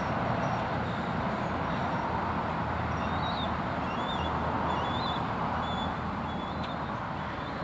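Steady road traffic noise, a continuous rolling rush of passing vehicles, with faint short high-pitched bird chirps scattered over it from about three seconds in.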